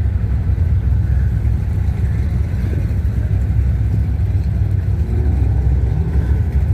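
Steady low rumble of car engines and passing traffic, with a faint rising engine note about five seconds in.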